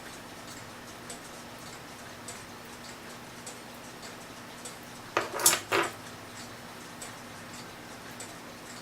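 Small metal clock parts or tools clinking and clattering on a workbench in a short burst of a few sharp clicks about five seconds in. Underneath, a clock ticks faintly and steadily, a little under twice a second.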